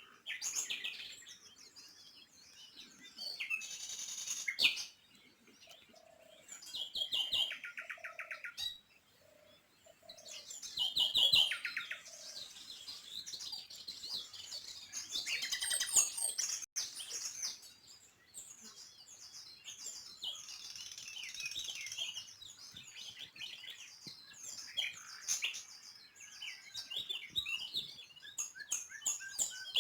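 Small birds chirping and twittering, with many short high chirps and several quick trills coming and going. A row of short, lower, evenly spaced notes sounds about six to nine seconds in.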